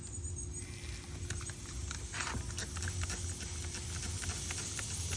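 A steady low machine hum with irregular light clicks and ticks over it, and a faint hiss that comes up partway through.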